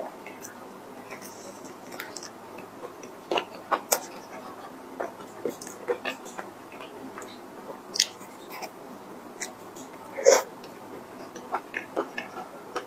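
Close-miked eating of a cream puff: soft chewing with wet mouth clicks and smacks scattered irregularly, one louder smack about ten seconds in.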